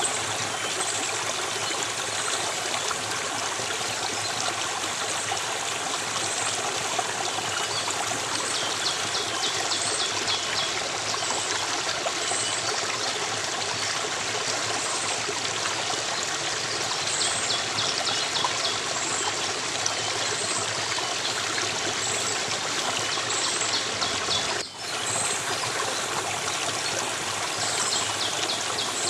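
A stream of running water trickling steadily, with faint high chirps coming and going over it.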